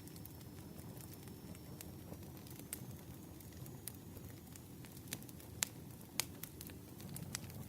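Campfire burning: a steady low rumble with scattered crackles and pops, a few sharper snaps in the second half.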